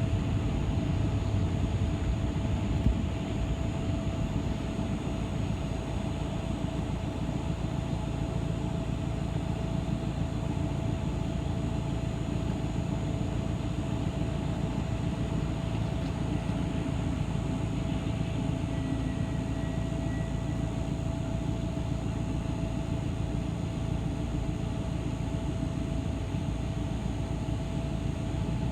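Inside a moving city bus: a steady low rumble of engine and road noise with a constant droning tone over it.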